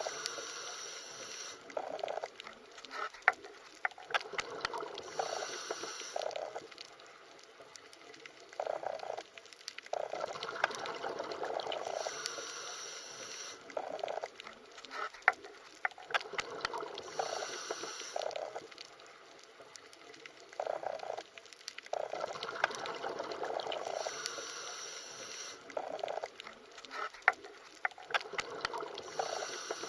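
Underwater ambience: steady bubbling water noise that swells in bursts about every five to six seconds, with scattered sharp clicks.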